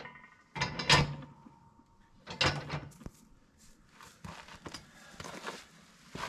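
Steel parts clanking together as a welded bracket and attachment are fitted to a tractor's quick hitch. The loudest clank comes about a second in and rings briefly, another comes about two and a half seconds in, and lighter knocks and clicks follow.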